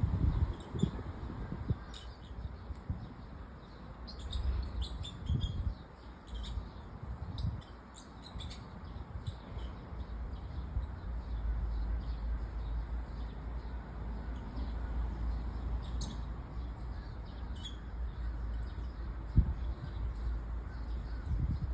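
Birds chirping in short scattered calls, over a low rumble of wind buffeting the microphone that grows steadier about halfway through.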